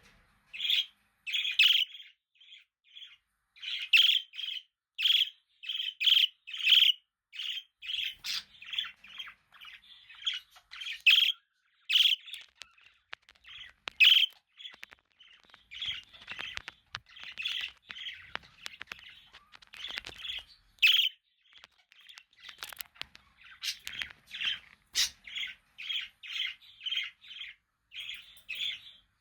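Budgerigars chirping and chattering in a steady stream of short, quick calls with a few sharper squawks, pausing only briefly.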